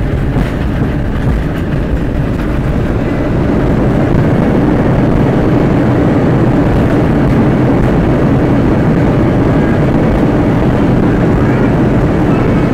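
Steady engine and airflow noise of an Airbus A320 heard inside the passenger cabin during the landing, getting slightly louder about three seconds in.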